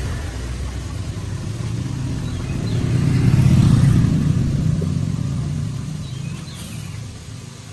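Rebuilt tractor engine running with a steady low rumble that swells to its loudest about halfway through, then eases off.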